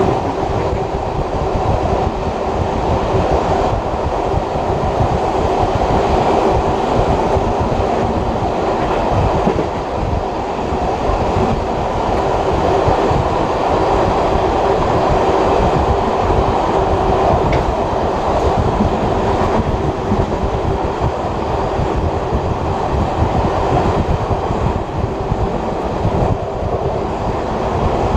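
Passenger carriage of a steam-hauled heritage train running along the track: a steady, loud rumble of wheels on rail with a constant hum, and no distinct breaks.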